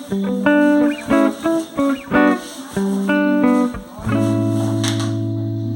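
Guitar music: short plucked chords in a steady rhythm, then about four seconds in a chord struck and left ringing.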